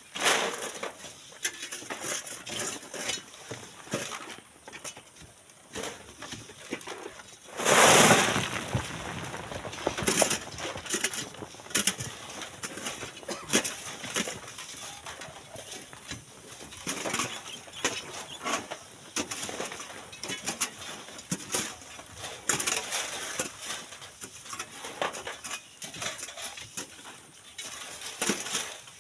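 Shovels scraping and scooping into sand and gravel, a quick irregular run of gritty scrapes and knocks, with one louder rush of sand and stones about eight seconds in.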